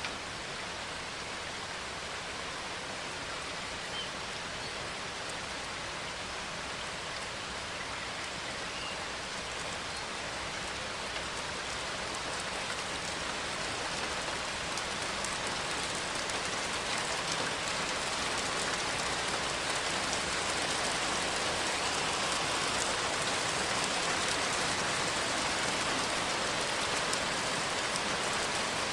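Steady rain falling on leaves and surfaces, with a few faint drop ticks, growing slightly heavier over the second half.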